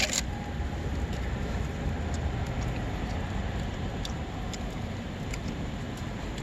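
A sharp clack right at the start, then a campfire crackling with sparse, faint pops over a steady low rumble.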